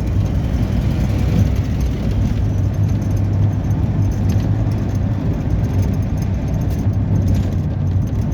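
Steady low rumble of a motor vehicle on the road, even throughout with no distinct knocks or changes.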